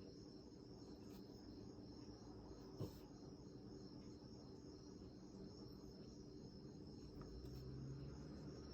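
Near silence: room tone with a faint steady high-pitched whine and a low hum, and a single small tap about three seconds in.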